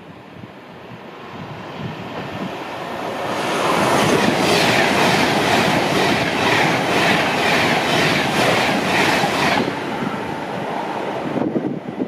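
A train passing at speed. It grows louder over the first few seconds, then runs loudest for about five seconds with a quick, regular clickety-clack of wheels over rail joints, and drops off sharply a couple of seconds before the end.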